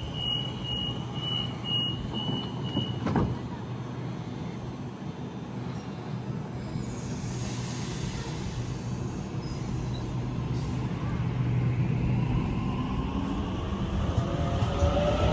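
Electric train's door-closing warning beeping rapidly, ending about three seconds in with a knock as the doors shut. Then a steady rumble, with the train's motors whining and rising in pitch over the last few seconds as it pulls away.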